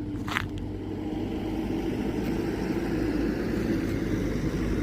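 Car engine and road noise, a steady low hum that grows slowly louder, with a short click about half a second in.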